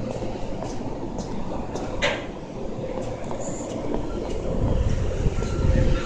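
Railway station platform noise: a low rumble of a train that grows louder over the last second and a half, with a short hiss about two seconds in. Faint footsteps tick about twice a second at the start.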